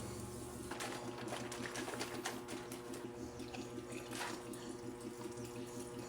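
Water running from a tap, with a scatter of light clicks and knocks, tapering off near the end.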